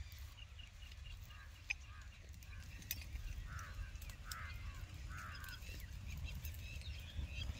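Birds calling in short, repeated chirping notes, faint over a steady low rumble, with a few sharp crackles from dry palm fronds burning.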